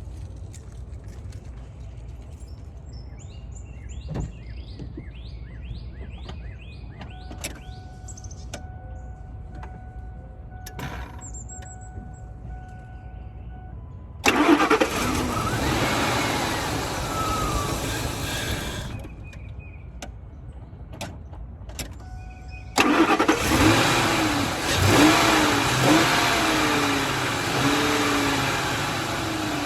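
A 2001 Ford F-150's engine being started after its EGR valve was cleaned to cure a no-start. Dashboard chimes come first, then about halfway in the engine turns over and runs for about four seconds before stopping. A few seconds later it starts again and revs up and down, easing off near the end.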